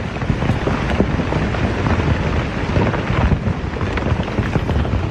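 Dukono volcano erupting: a dense, low rumble with many crackles through it, and wind buffeting the microphone.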